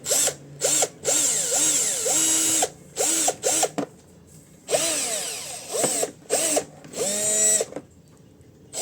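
Cordless hammer drill run in a series of about ten short trigger pulls, its motor whine rising and falling in pitch with the variable-speed trigger. The longest run comes about a second in.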